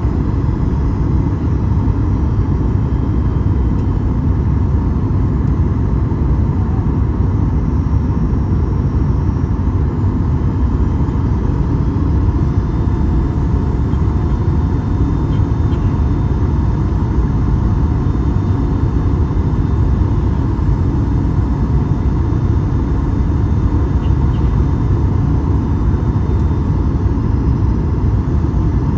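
Steady cabin noise inside a Boeing 737 MAX 8 in flight: an even, low rumble of airflow and engines with a faint steady hum above it.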